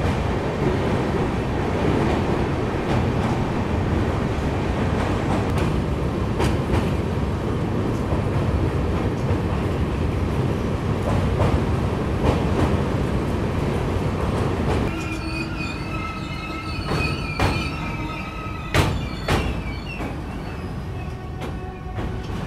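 Moving passenger train's wheels and running gear on the track, a loud steady rumble. About fifteen seconds in it drops a little, and a few sharp clacks and faint steady tones come through.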